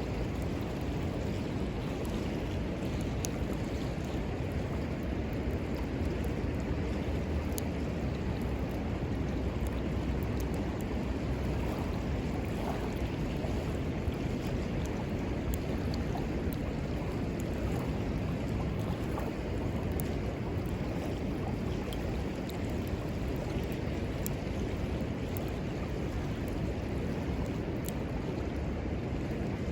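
Steady rush of river water, with a small wood fire crackling in scattered sharp snaps.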